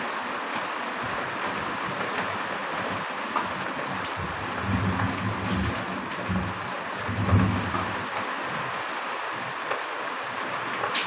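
Heavy rain falling steadily, with a low rumble that swells and fades between about four and eight seconds in.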